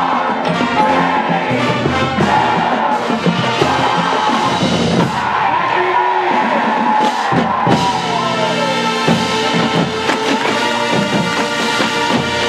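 High school marching band playing full out, brass holding sustained chords over percussion, with a long downward slide in the brass about two-thirds of the way through.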